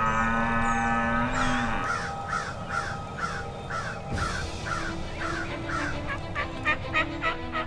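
Wild turkey yelping: a long, even series of short, rough calls, about two a second, quickening toward the end, with background music underneath.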